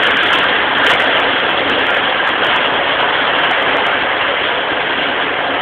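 Steady running noise of a passenger train travelling at speed, heard from inside the carriage: an even rush and rumble with no distinct rhythm.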